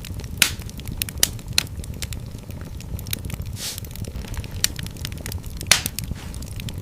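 Wood fire in a fireplace crackling steadily over a low rumble of flame, with a few louder pops and a brief hiss about halfway through.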